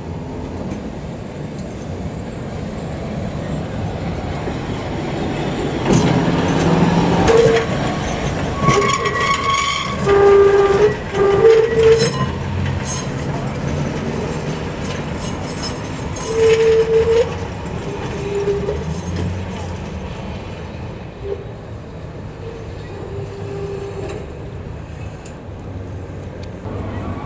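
Heritage tram running along the track: a steady rumble of wheels on the rails that swells and fades again, with clicking and several short pitched tones over it in the middle.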